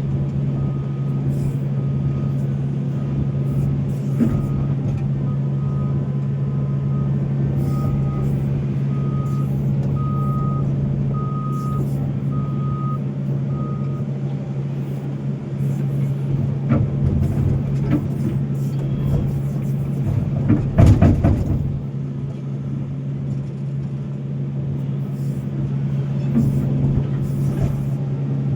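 Heavy diesel engine running steadily under load, with a reversing alarm beeping about once a second through the first half. A loud, short clatter of material or bucket metal about three-quarters of the way through.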